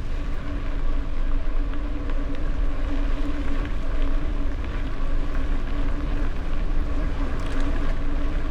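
Wind buffeting the microphone of a camera on a moving gravel bike, a heavy, steady rumble, with the rolling noise of the bike, a steady hum and scattered small rattles and ticks.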